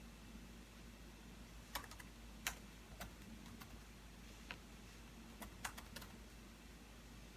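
Computer keyboard typing: about ten separate keystrokes in two short, sparse runs with a pause between them, over a faint low hum.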